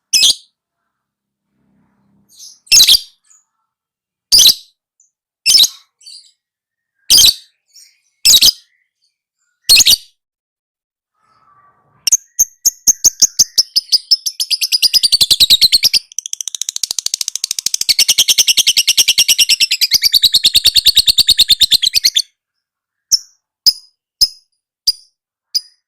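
Lovebird calling: sharp single chirps spaced about a second and a half apart, then a long, fast chattering trill that runs for about ten seconds before breaking back into a few short chirps.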